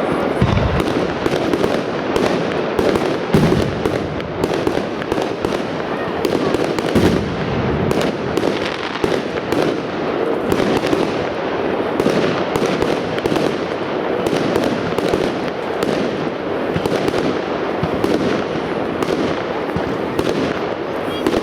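A fireworks display going off in a continuous dense barrage of many overlapping bangs and crackle, with a few deeper booms about half a second, three and a half and seven seconds in.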